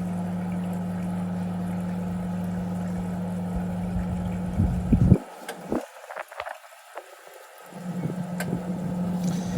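National NA9450PN pulsator washing machine going into drain: a steady hum, then a few clicks and a loud clang about five seconds in as the tub lock engages to hold the tub ready for spin. The hum cuts off abruptly after the clang, a few faint ticks follow, and the hum comes back near the end.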